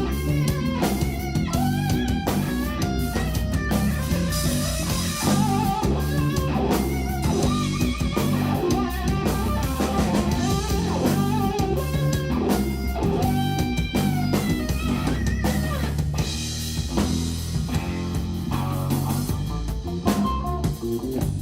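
Instrumental jazz-rock power trio playing live: a lead electric guitar carries a melody with bent, wavering notes over bass guitar and a drum kit.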